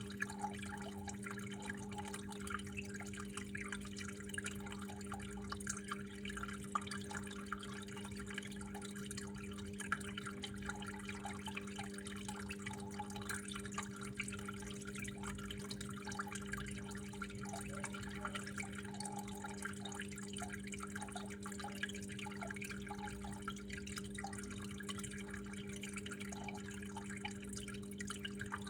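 Water flowing and trickling indoors, with a continuous irregular patter of drips and small splashes over a steady low hum.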